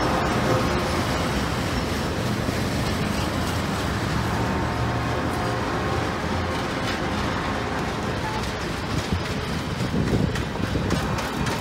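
Steel wheels of CSX passenger cars rolling past on the rails, a steady rumble that grows more uneven in the last few seconds as the rear car goes by.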